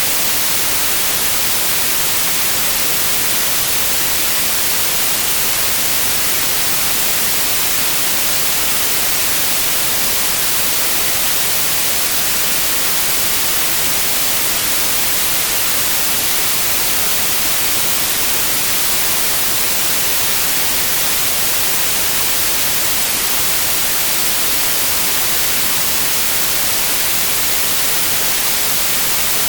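Steady, unchanging white noise: an even hiss across the whole range, strongest in the highs, with no breaks or changes.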